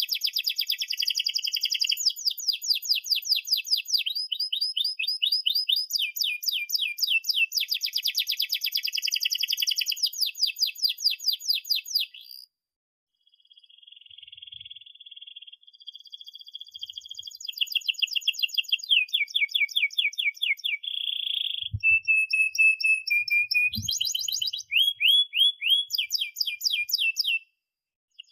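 Domestic canary singing a long song of fast, evenly repeated trills and rolls, high-pitched and chirping, with a short break about halfway through. Two soft low knocks come near the end.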